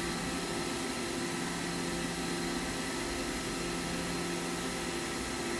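Mazak FH-6000 horizontal machining center running under power: a steady machine hum with several fixed tones over a hiss, unchanging throughout.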